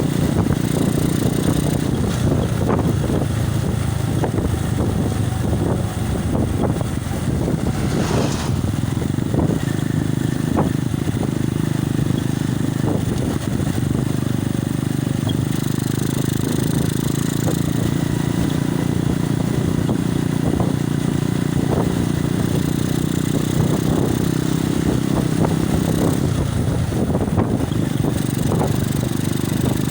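Steady wind rumble on a phone microphone from a moving motorcycle, with the motorcycle's engine running underneath.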